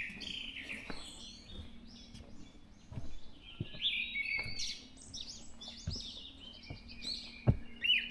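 Dawn chorus: several songbirds chirping and trilling together, busier from about three seconds in. Soft irregular thumps of footsteps on the forest floor, the sharpest near the end.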